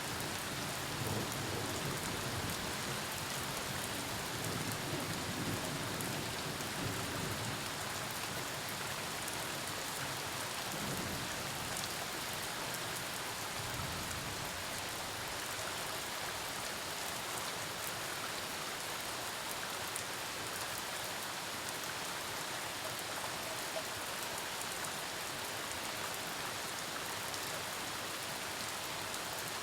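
Steady rain falling in a thunderstorm, with a low rumble of thunder through the first several seconds and again briefly around the middle.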